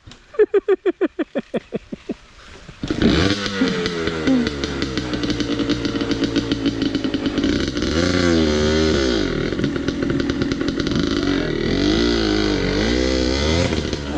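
Dirt bike engine chugging in slow, even pulses at low revs. About three seconds in it opens up loud and revs up and down repeatedly under throttle as the bike is ridden.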